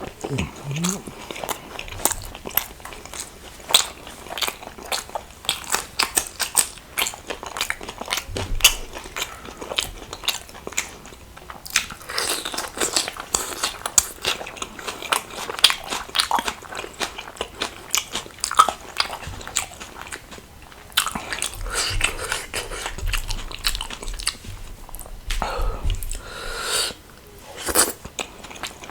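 Close-up eating and chewing sounds: lip smacks, wet chewing and crunchy bites, in a quick irregular run of sharp clicks.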